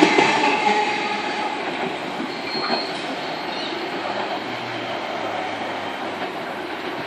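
Tangara double-deck electric train passing and pulling away. Its running noise and a hum of steady tones are loudest at first, then fade evenly as it recedes.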